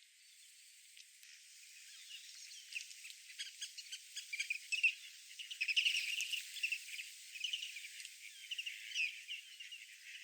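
Birds chirping and twittering in quick, overlapping short high calls. The calls are faint at first, grow busier from about two seconds in, and are densest through the middle.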